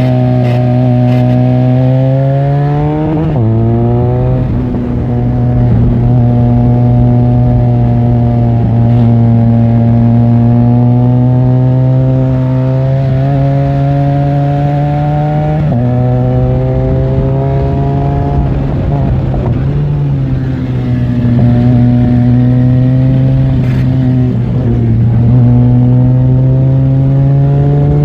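Benelli 502C's 500 cc parallel-twin engine running under way, its pitch slowly rising and falling with the throttle. Its note steps sharply about three seconds in, again about halfway, and near the end, as gears change.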